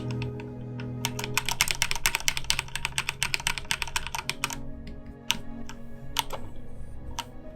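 Computer keyboard typing: a quick run of keystrokes from about a second in, then a few single clicks near the end.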